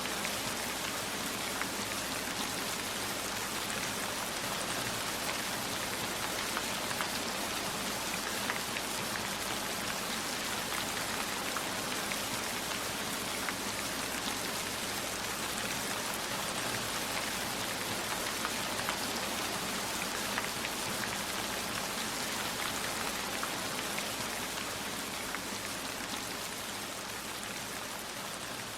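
Steady heavy rain, a dense patter of drops falling on surfaces, easing slightly near the end.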